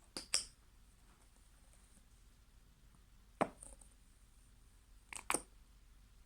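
Short sharp clicks and knocks of slime containers being handled: a pair at the start, a single one past the middle, and another pair near the end.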